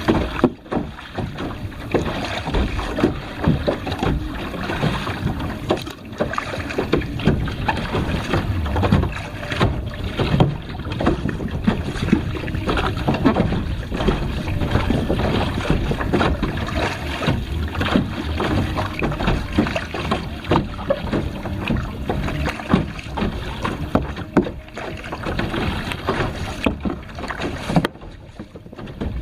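Water splashing and sloshing, uneven and continuous, with wind buffeting the microphone.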